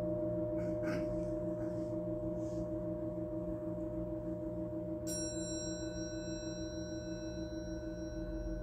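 Singing bowls ringing on, their low tones pulsing slowly as they beat. About five seconds in, a higher-pitched metal instrument is struck and rings on with several clear high tones.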